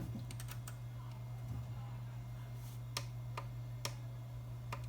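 Sharp clicks of buttons being pressed on a compact audio amplifier: a few quick ones about half a second in, then four single clicks spaced through the second half, over a steady low hum.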